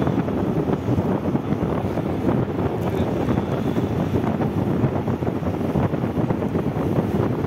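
Wind buffeting the microphone of a moving motorcycle, a steady low rushing noise with the bike's running and road noise beneath it.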